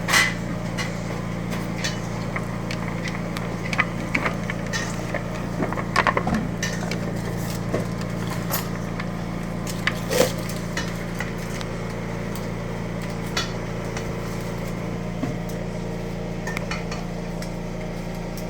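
A utensil knocking and scraping against a pot or pan now and then, the loudest knocks about six and ten seconds in, over a steady low hum.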